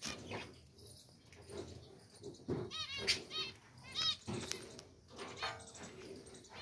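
Budgerigars calling: quick runs of high, sharp chirps about a third and two thirds of the way in, a buzzy squawk near the end, and a few short knocks or wing flutters in between.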